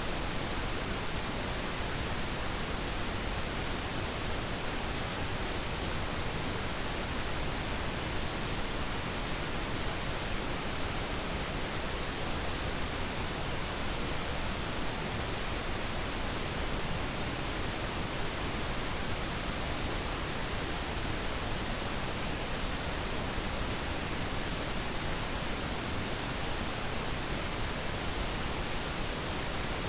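Steady pink noise: an even, unchanging hiss spread across the whole range, with no other sound.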